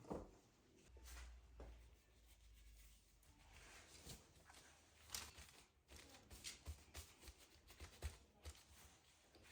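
Near silence with scattered faint clicks and soft knocks, as of small objects being handled.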